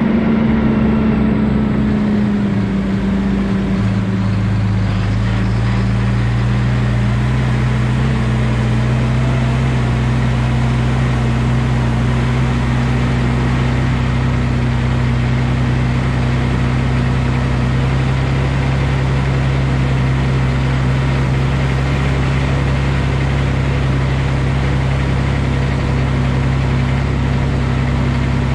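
Valtra T234 Direct tractor's six-cylinder diesel engine running under steady revs. It eases down a little in the first few seconds, then holds an even pitch.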